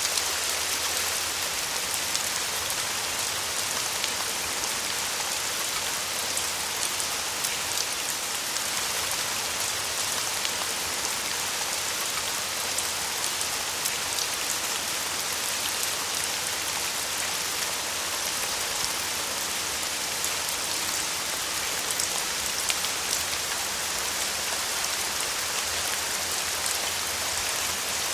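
Steady rain falling, with a dense hiss and many small drop ticks on a surface.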